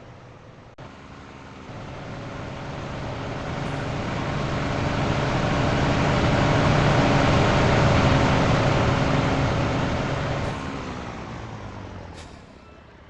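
Heavy truck engine and road noise swelling over several seconds to a peak, then fading with the engine pitch falling.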